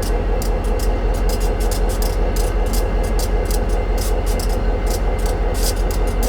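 Train running: a steady low rumble and drone with a rapid, irregular patter of high ticks and clicks over it.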